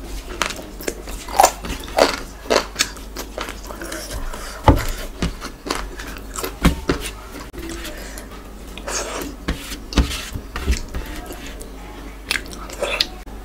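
Close-miked eating: a person chewing and biting soft khichuri and spiced chicken eaten by hand, with irregular wet mouth smacks and clicks.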